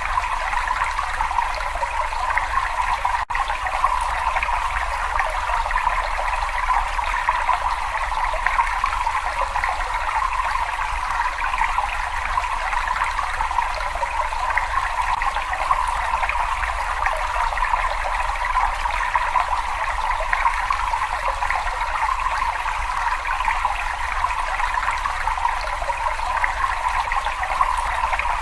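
Steady running water trickling and splashing in a cave, with a low rumble underneath. There is a split-second dropout about three seconds in.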